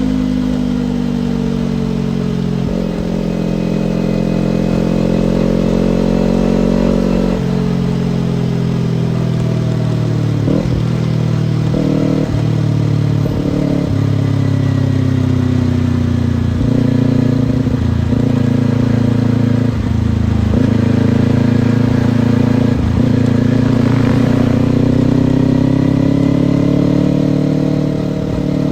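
Kawasaki Ninja parallel-twin sport-bike engine running under way, its pitch climbing and falling as the rider works through the gears. The middle stretch has several short breaks in the engine note at the shifts.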